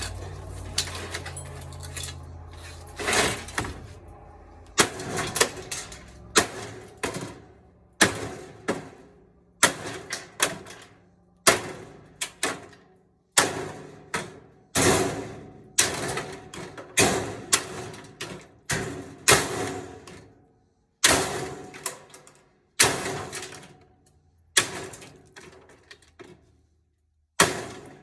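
Repeated sharp metal clanks, each with a short ringing tail, about one every second or two, from a washing machine being dismantled for scrap.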